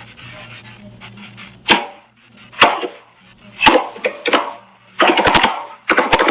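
A faint steady electrical hum, then a string of short sharp clicks or taps at irregular intervals, bunched together near the end.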